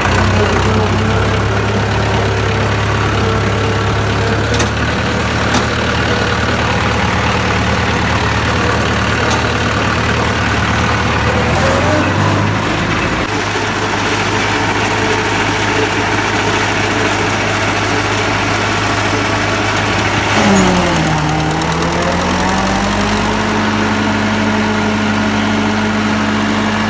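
HMT 5911 tractor's diesel engine running steadily while driving a maize thresher. About twenty seconds in, the engine note sags briefly, then comes back up and holds a little higher.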